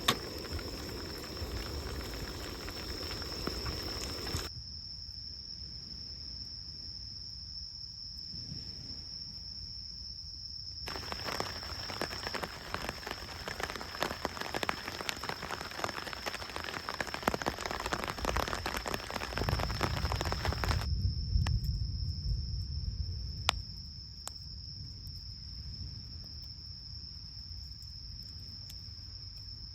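Crickets trilling one steady high note, with a campfire crackling and popping in stretches: for the first few seconds, then again for about ten seconds from the middle on.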